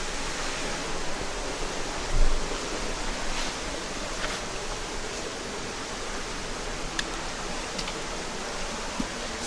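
Mountain headwater stream running steadily over rocks, an even rush of water. There is a brief low thump about two seconds in and a few faint ticks later.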